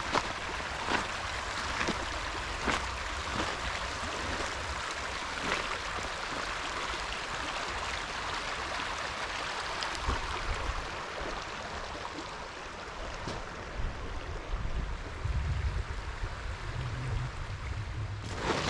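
A river running steadily, a constant rush of flowing water, with a few light clicks in the first seconds and some low rumbles near the end.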